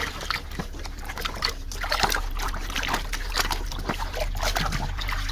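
Water splashing and sloshing in a small tub as a muddy toy car is swished and washed in it, with irregular little splashes and drips.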